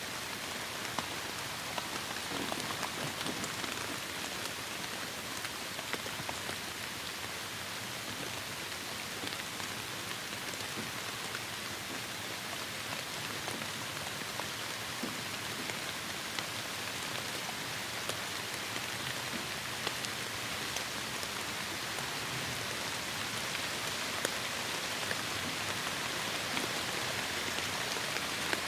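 Heavy rain falling steadily, a dense hiss of drops with many small individual drop ticks, growing slightly louder near the end.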